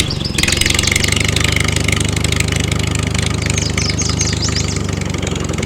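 An engine idling with a fast, even chugging.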